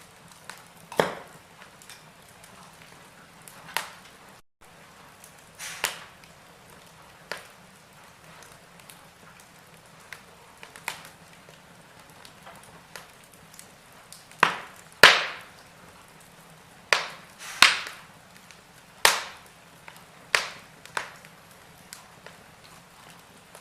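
Wood fire in a fireplace crackling, with irregular sharp pops over a faint steady hiss. Several of the loudest pops come close together about two thirds of the way through.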